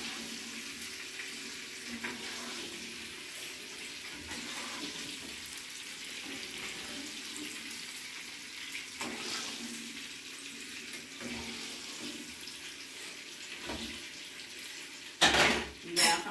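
Zucchini slices frying in oil in a pan, with a steady sizzle. A few loud clattering knocks come near the end.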